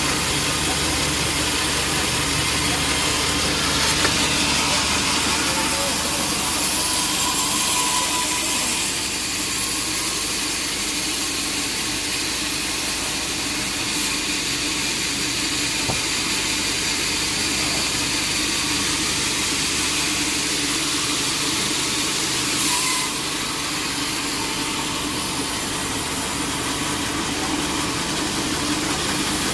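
Sawmill machinery running steadily: an engine's hum under a continuous hiss, with two brief louder moments about four seconds in and near the two-thirds mark.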